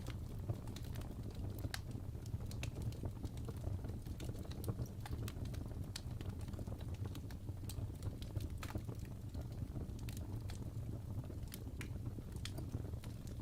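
Wood fire burning in a fireplace, crackling: irregular sharp pops and snaps of burning logs over a steady low rumble of flames.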